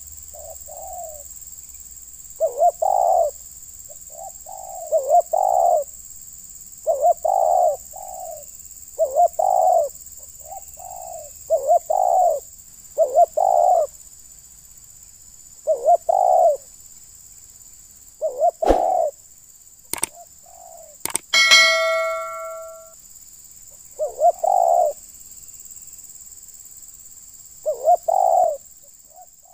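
Spotted doves cooing, a short phrase repeated about every two seconds. Midway there are a few sharp knocks and a brief metallic ring that fades out.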